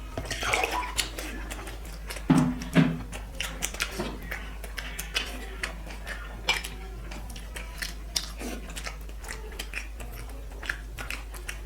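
A person eating rice and curry: close chewing and mouth smacks with scattered clicks, and two louder short sounds about two and a half seconds in.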